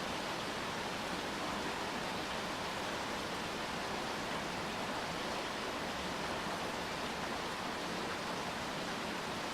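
Steady rainfall: an even, unbroken hiss of rain with no separate drops or other events standing out.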